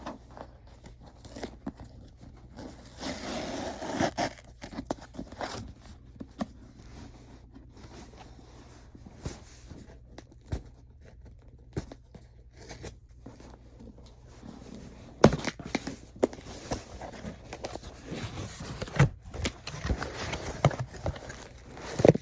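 Packaging of a mail-order box being unwrapped by hand: wrapping rustling, crinkling and tearing, with scattered light knocks and clicks as items are handled.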